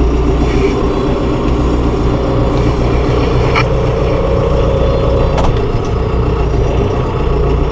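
John Deere 5100E tractor's four-cylinder diesel engine running steadily with the tractor in fourth forward gear, with two faint clicks about three and a half and five and a half seconds in.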